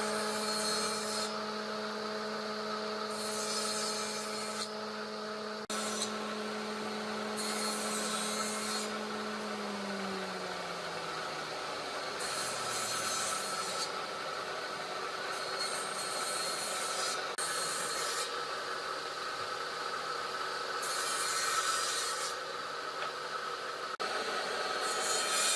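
Wood being rubbed by hand in repeated abrasive strokes, one every few seconds. Under the strokes a motor hums steadily, then winds down in pitch and fades out about ten to thirteen seconds in, as if it has been switched off and is coasting to a stop.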